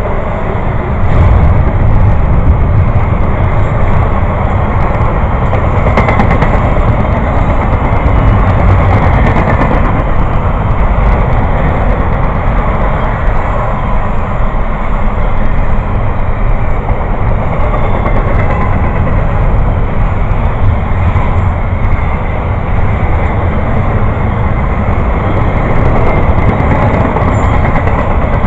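A train passing by on the rails: a loud, steady, continuous noise with no letup.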